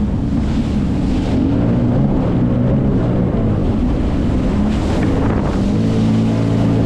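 Jet ski engine running under way, its pitch shifting slightly, with wind buffeting the microphone and the hiss of water.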